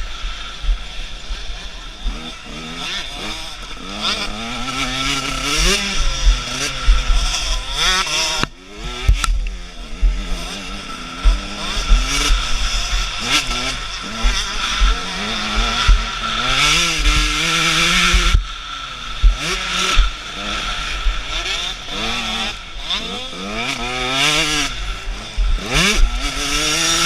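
Husqvarna TC 125 two-stroke motocross engine revving hard and backing off again and again, the pitch climbing and dropping through throttle and gear changes, with a couple of brief drops in power. Wind buffets the microphone throughout.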